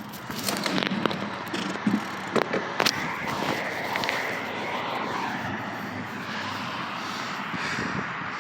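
Street traffic: a motor vehicle passing, a steady engine-and-road noise with faint gliding tones. Several sharp clicks and rattles in the first three seconds.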